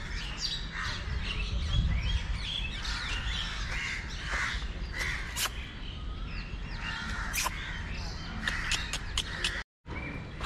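A busy chorus of birds calling, many short overlapping calls, over a low rumble. The sound drops out completely for a moment near the end.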